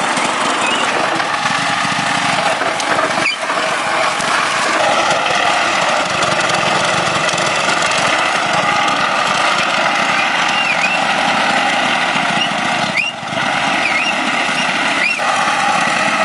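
An engine running steadily, with brief dips in the sound about three seconds in and twice near the end.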